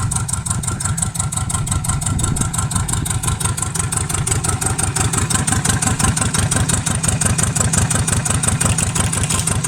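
Small backup diesel engine running steadily at idle just after starting on its electric starter, a rapid even chugging of several beats a second.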